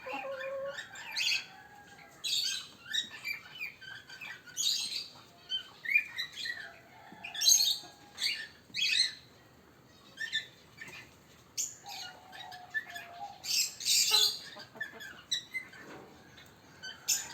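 Birds chirping in short, irregular calls, many of them high-pitched, with a few longer, lower calls in between.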